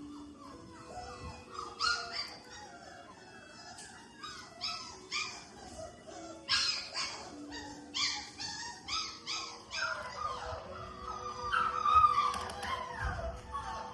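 5-week-old Labrador puppies whining and yipping in high, wavering cries that grow louder over the last few seconds, with scuffing clicks from their play earlier on.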